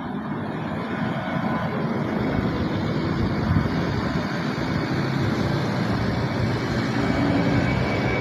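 Airplane engines at takeoff power, a steady rushing noise with a faint whine that grows gradually louder.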